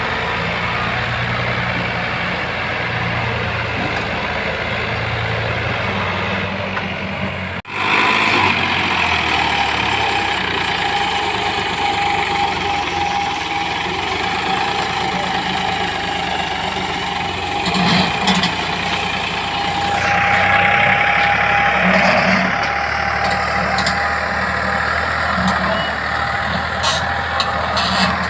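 Farmtrac 45 tractor's diesel engine running steadily. About a third of the way in the sound briefly drops out, after which a steady high whine sits over the engine noise.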